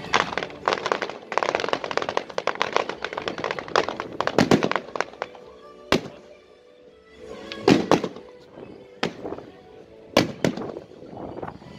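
A fireworks display: a dense, rapid crackle of many small reports over the first five seconds as a wall of red comets fires, then about five separate sharp bangs of small aerial shells bursting, a second or two apart.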